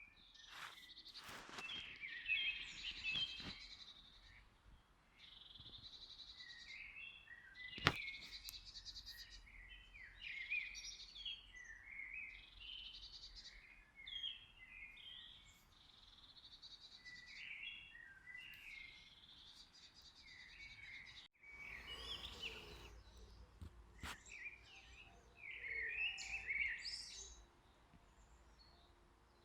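Several songbirds singing and chirping over one another in quick, overlapping phrases, over a light background hiss. A sharp click comes about eight seconds in, and there is a short break about two-thirds through, after which the hiss is a little louder.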